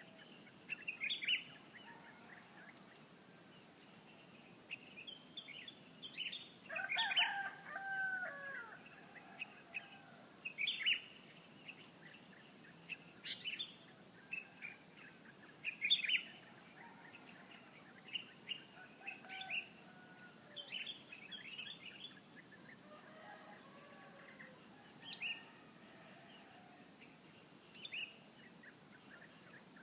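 A rooster crows once about seven seconds in, among many short chirps of small birds scattered through the whole stretch. A steady high-pitched hiss lies underneath.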